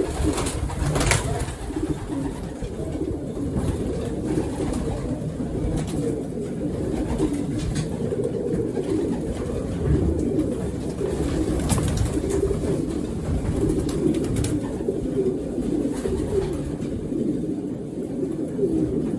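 Many racing pigeons cooing together in a loft: a continuous low, dense cooing, with a few sharp clicks or knocks here and there.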